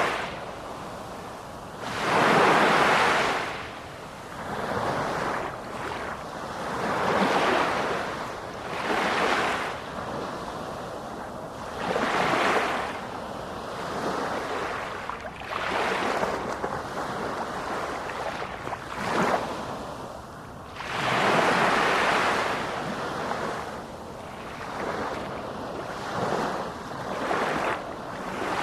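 Sea waves breaking and washing ashore, one surge of surf after another every two to three seconds. The biggest surges come about two seconds in and about three-quarters of the way through.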